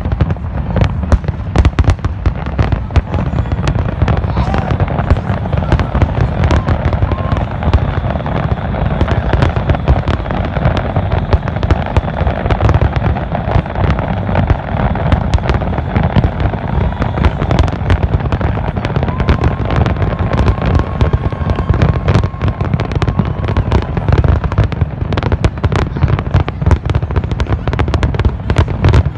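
Fireworks display: a dense, unbroken barrage of bangs and crackles over a heavy low rumble.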